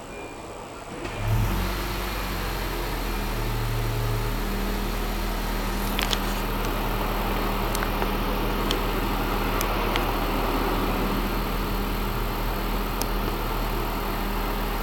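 Honda Vezel Hybrid's 1.5-litre four-cylinder petrol engine starts by remote about a second in, set off by three presses of the lock button through an aftermarket engine-starter security system, then idles steadily with a few light clicks.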